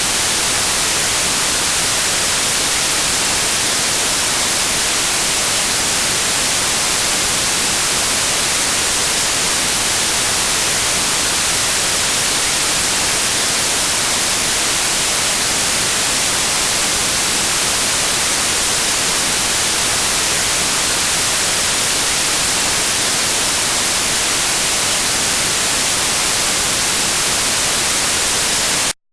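Generated white noise: a steady hiss spread evenly across all pitches, cutting off suddenly at the very end.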